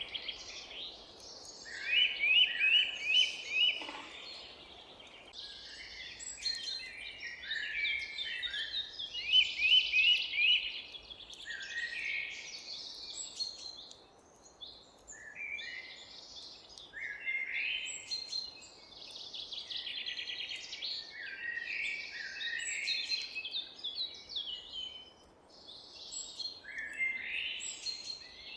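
Several songbirds singing and chirping in repeated short phrases, some with quick runs of rapid notes, over a faint steady background hum.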